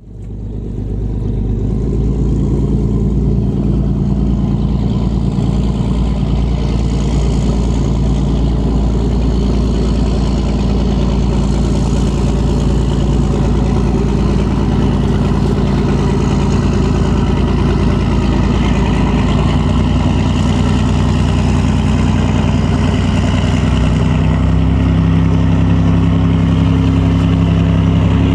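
A ferry's large diesel engine running with a steady low drone, fading in at the start; about two-thirds of the way through its tones shift in pitch and it grows slightly louder.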